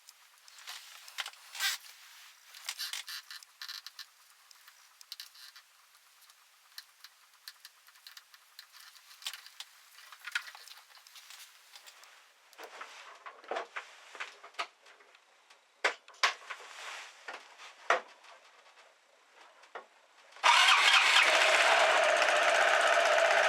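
Scattered light clicks and taps, then about twenty seconds in the Honda Spacy 250 Freeway scooter's engine starts suddenly and keeps running steadily.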